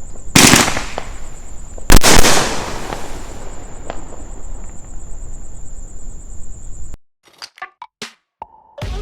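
Two loud shell bursts from a 12-shot, 2-inch-bore consumer fireworks cake, about a second and a half apart, each followed by a long fading crackle and hiss. The sound cuts off sharply about seven seconds in, and electronic music begins just before the end.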